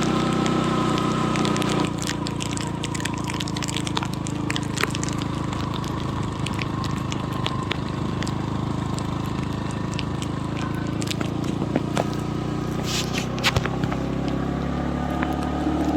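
A motor vehicle's engine running steadily, with many scattered crackling clicks over it.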